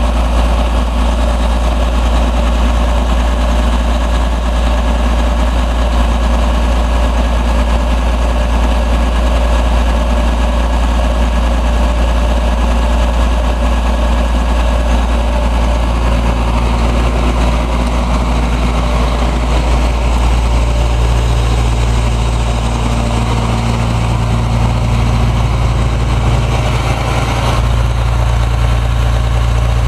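Caterpillar 345B hydraulic excavator's diesel engine running at a steady idle, with a deep steady hum; about halfway through its tone shifts slightly lower and fuller.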